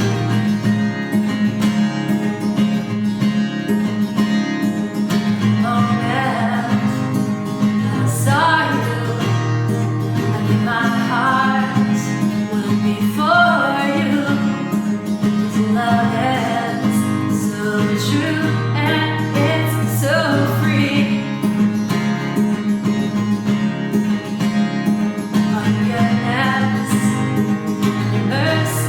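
Acoustic guitar playing a slow song, with a woman singing over it; the voice comes in about six seconds in and drops out for a few seconds near the end.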